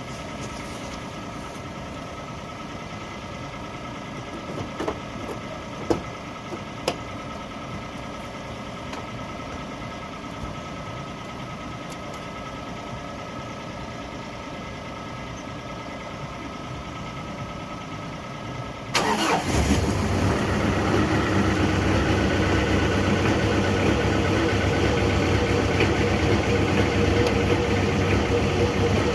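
Ford Ranger 2.5 L four-cylinder turbo diesel being cold-started at −4 °C. After a long steady hum with a few clicks, the engine cranks very briefly about two-thirds of the way in, fires at once and settles into a steady idle.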